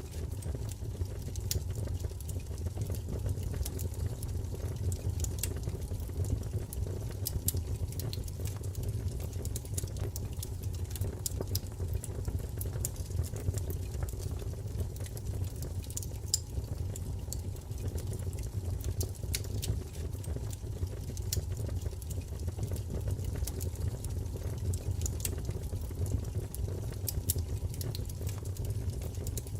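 Wood fire crackling: a steady low rumble of flames with frequent small, sharp pops and crackles at irregular intervals.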